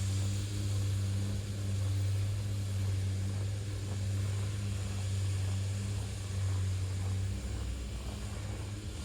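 A motor vehicle's engine running with a steady low hum, over a wide hiss of street noise. The hum shifts lower about seven seconds in.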